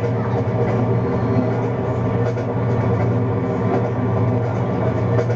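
Simulated diesel locomotive engine and train running at speed, a steady low rumble played through a locomotive simulator's speakers.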